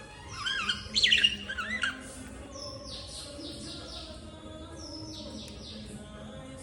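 Birds chirping: a loud warbling call that wavers up and down from about half a second to two seconds in, followed by repeated runs of quick, high, falling chirps.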